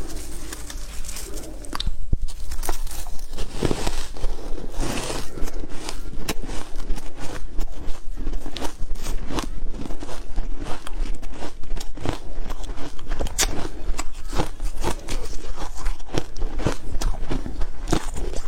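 Ice being bitten and chewed: a dense run of sharp cracking crunches, several a second, getting busier about two seconds in.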